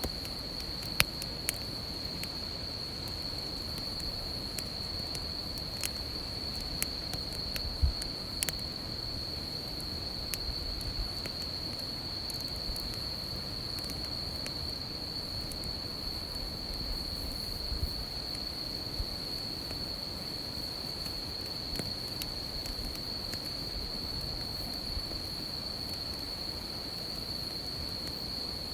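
Insects singing in one steady, unbroken high-pitched chorus, with a wood campfire crackling underneath and giving a few sharp pops, the loudest about a second and about eight seconds in.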